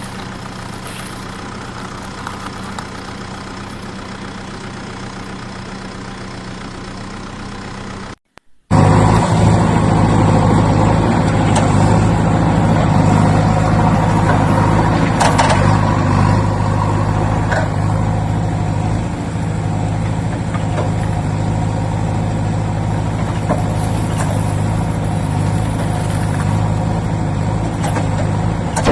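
Engine running at a steady idle. It drops out for a moment about eight seconds in, then carries on louder.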